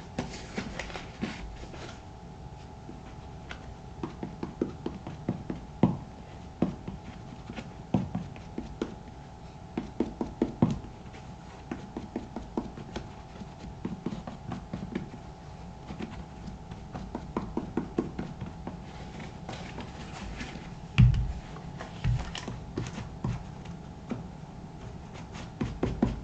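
Close-up handling sounds of shoe cream being worked into black leather moc-toe boots: irregular light taps, scrapes and rubbing, with one heavier thump about three-quarters of the way through.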